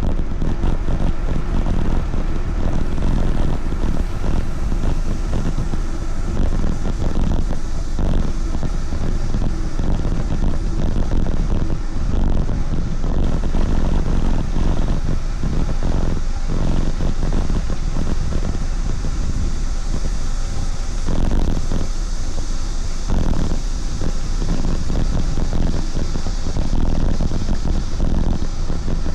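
Wind rushing over the microphone of a rider's camera while riding: a loud, steady rumble with irregular gusting flutters.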